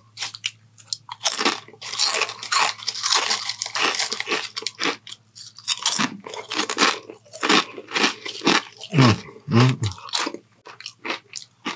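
Close-miked chewing of a mouthful of crisp potato chips: loud, irregular crunches one after another.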